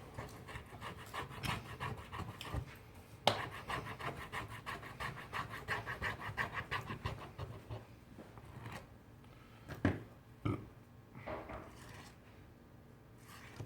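A hand tool scraping adhesive softened by an MEK substitute off a phone's frame: quick, repeated scraping strokes, several a second, with one sharp click about three seconds in. The strokes thin out to a few scattered scrapes after about eight seconds.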